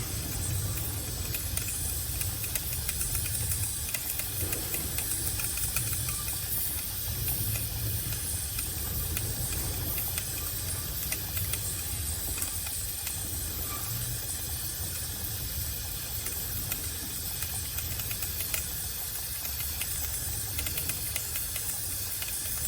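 Aerosol chain lube hissing steadily as it is sprayed onto a motorcycle drive chain and rear sprocket.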